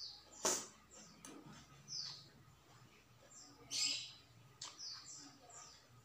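Small birds chirping on and off, short high chirps that each fall in pitch. A single sharp click, the loudest sound, comes about half a second in.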